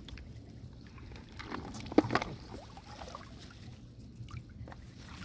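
Water sloshing and splashing in shallow floodwater, with a short cluster of louder splashes about two seconds in.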